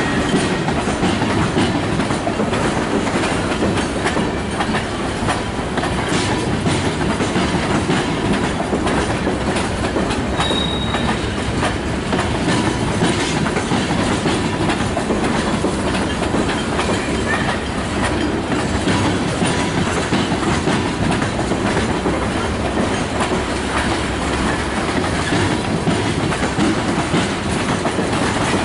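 Freight train's tank cars and boxcars rolling steadily past, wheels clicking over the rail joints over a continuous rumble.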